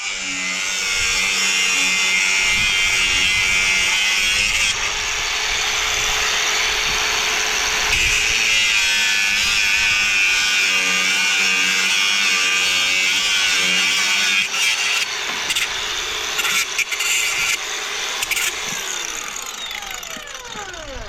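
Electric power tool running steadily under load, then switched off and on in short stop-start runs, its motor pitch falling as it winds down near the end.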